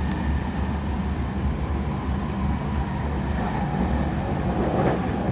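Steady low rumble of a JR Central local electric train running, heard from inside the passenger car, with a brief louder rush near the end.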